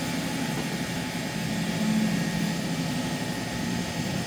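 A steady mechanical drone with a low hum, swelling slightly about two seconds in.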